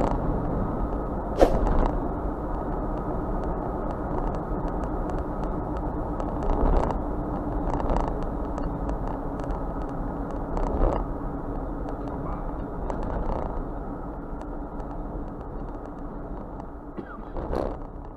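A train rumbling past and away, with a steady low hum, scattered clicks and knocks, and the whole sound slowly growing quieter.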